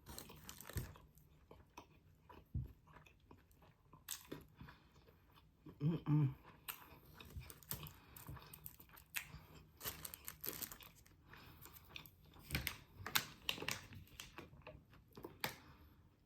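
Close-miked chewing with irregular sharp crunches and wet mouth clicks, the sound of someone eating crunchy food.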